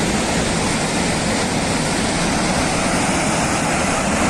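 Floodwater rushing down a mountainside in a torrent: a loud, steady roar with no pauses.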